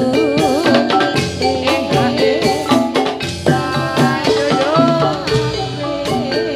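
Javanese gamelan music accompanying a jathilan dance: struck metallophones playing a busy pattern over hand-drum strokes, with a wavering melody line above.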